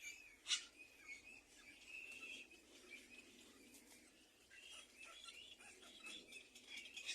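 Faint bird chirps scattered through, with one brief sharp sound about half a second in.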